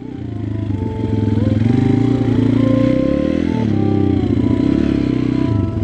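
Single-cylinder four-stroke engine of a 140 cc pit bike running under throttle while riding, rising in volume over the first second or so. Its pitch dips briefly about halfway through, then picks up again.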